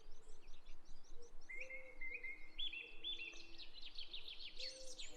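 Songbirds chirping and singing: quick series of high chirps, about four a second, with clearer whistled notes that step upward in pitch, over faint low held tones.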